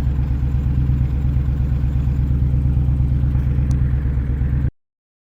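Honda VTX 1300's V-twin engine running steadily with a low, pulsing note; the sound cuts off abruptly near the end.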